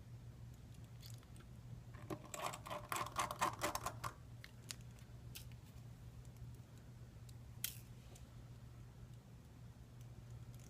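Small clicks and a short rattle of tools and small parts handled while reassembling a smartphone: a dense run of clicks about two seconds in, then a few scattered single clicks. A steady low hum runs underneath.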